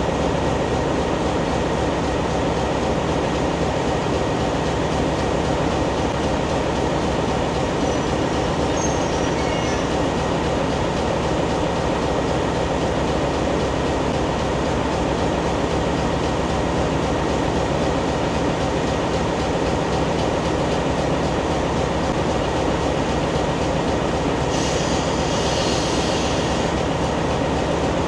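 Diesel locomotive engine idling steadily close by, a constant hum with a few steady tones. Near the end a brief high hiss lasts about two seconds.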